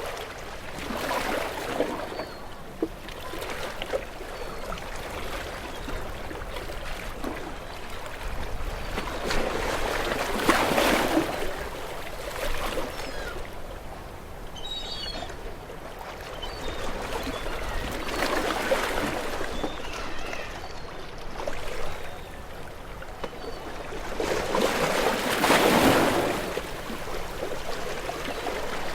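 Small waves washing onto a shore: four swells of rushing water about seven to eight seconds apart, each rising and falling away. The last one, near the end, is the loudest.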